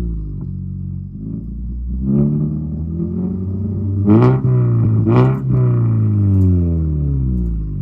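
2014 Mazda 3's 2.0-litre four-cylinder revved through an exhaust with a partly hollowed catalytic converter, to blow the loose catalyst pieces out of it. The revs fall back, climb again, give two quick sharp blips about a second apart near the middle, then drop away.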